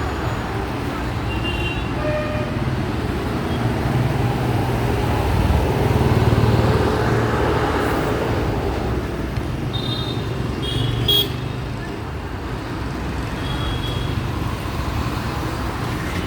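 Steady low rumble of road traffic, swelling about six seconds in as a vehicle passes, with a few short high-pitched tones and a brief click about eleven seconds in.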